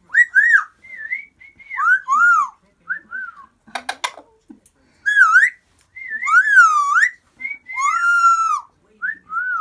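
Amazon parrot whistling a run of short notes that slide up and down, with a longer held whistle about eight seconds in. A few sharp clicks come about four seconds in.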